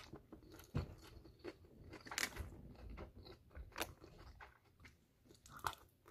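Faint close-up eating sounds: chewing and slurping chow mein noodles and beef and broccoli, with soft wet mouth smacks and clicks at irregular intervals.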